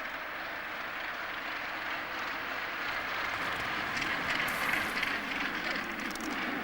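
Crowded gannet breeding colony: the calls of many birds merging into a steady din, a little louder from about four seconds in.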